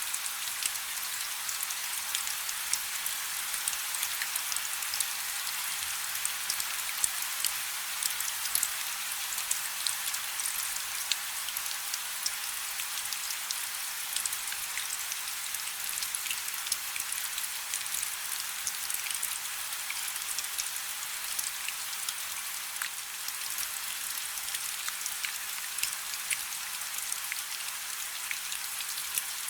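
Steady rain falling on a river's surface: an even, high hiss dense with the ticks of single drops.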